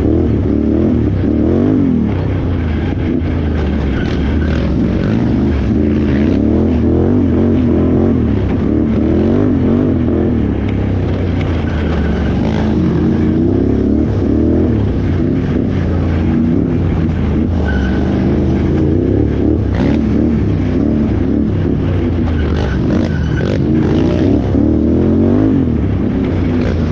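Can-Am Renegade XXC 1000R ATV's V-twin engine running hard off-road, its pitch rising and falling again and again as the throttle is worked.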